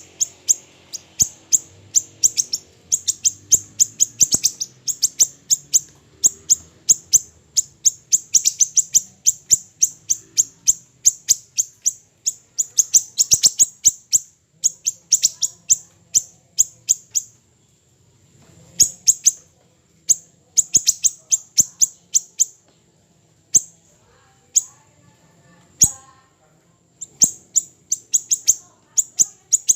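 Siri-siri kecil songbird calling in a rapid run of sharp, high chirps, several a second. The chirps thin out, with short pauses, in the second half.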